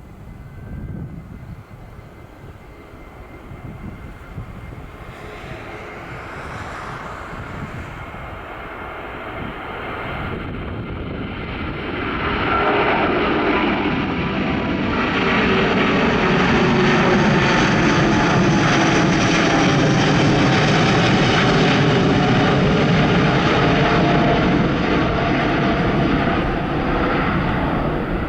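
Airliner passing close by: its engine noise builds steadily over about fifteen seconds, then stays loud, with tones that slowly fall in pitch as it goes past.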